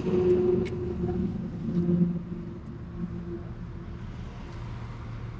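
A motor vehicle's engine running, loudest over the first two seconds or so, then fading to a low rumble.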